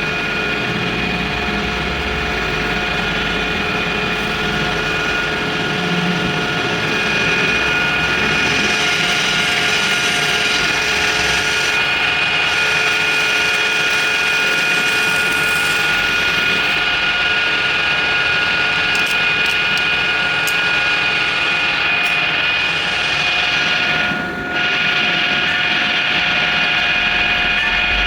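A motor-driven workshop machine running steadily, a constant noise with a high whine. The level dips briefly near the end.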